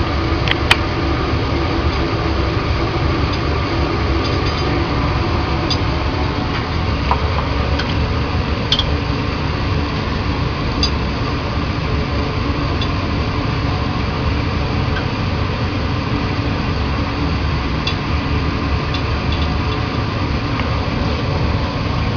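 Laboratory fume hood's exhaust fan running with a steady, even rush and low hum, with a few faint glassy clicks now and then.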